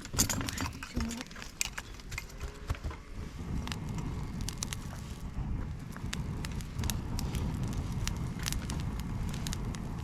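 Dry bamboo, twigs and leaves burning in a fire stand, with many sharp irregular crackles and pops. About a third of the way in, a steady low rush of flames or wind joins the crackling.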